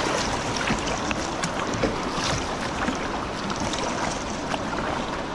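Rushing river water over shallow rapids around a kayak: a steady hiss with small splashes and drips scattered through it.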